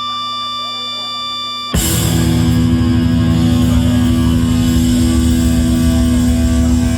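Live hardcore punk band. A few held electric guitar tones ring, then a little under two seconds in the full band comes in loud with distorted guitars and drums, and keeps playing.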